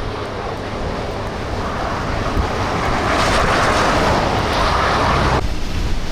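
Storm-force wind buffeting the microphone, mixed with the rush of heavy surf. The hiss swells a few seconds in, then cuts off abruptly near the end, leaving a lower rumble.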